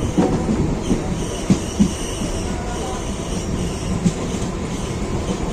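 Electric suburban local train (EMU) running on the rails, heard from inside the coach: a steady rumble with a faint, high wheel squeal coming and going. Two sharp knocks sound close together about a second and a half in.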